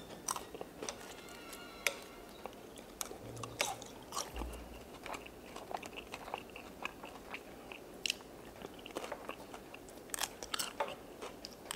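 A person chewing french fries, with scattered sharp mouth clicks and smacks, and light taps of metal chopsticks against the paper wrapper.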